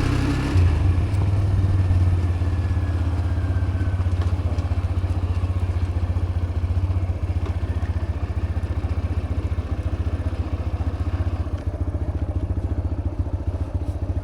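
TVS Raider 125's single-cylinder engine running under way, heard raw through the action camera's built-in mic. The engine note is steady, and its firing pulses come through more distinctly in the second half.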